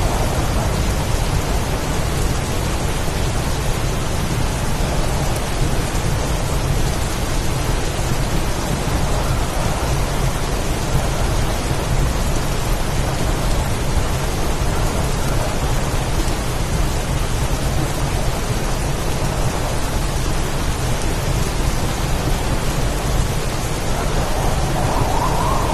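Heavy storm rain pouring steadily, with a continuous low rumble underneath and no distinct thunderclaps.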